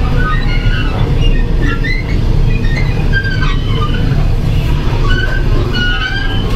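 Taiwan Railways EMU300 electric multiple unit running, heard from inside the vestibule: a loud, steady low rumble of wheels and running gear, with many short, high-pitched squeals scattered through it.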